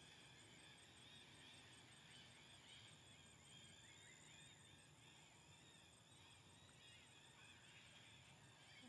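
Near silence with faint, continual high chirping of birds.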